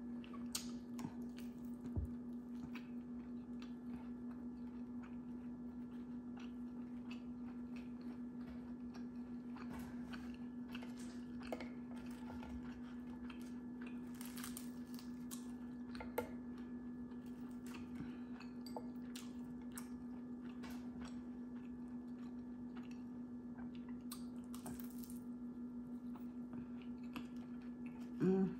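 Close-up chewing and biting of crispy fried chicken wings, with scattered crunches and mouth sounds that come thicker in a couple of stretches. A steady low hum runs underneath, and a brief vocal sound near the end is the loudest moment.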